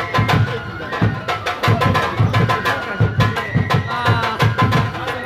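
Shinto kagura music: drums beaten in a quick, steady rhythm under a high, held flute melody.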